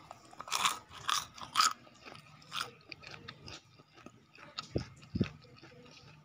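A person biting into and chewing crispy flour-coated fried tofu. There are about four crisp crunches in the first three seconds, then quieter chewing.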